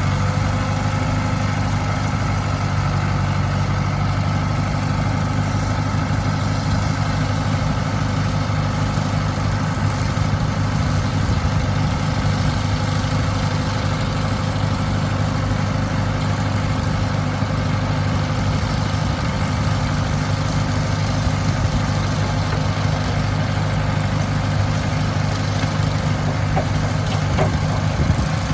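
International Harvester 574 tractor engine running at a steady speed.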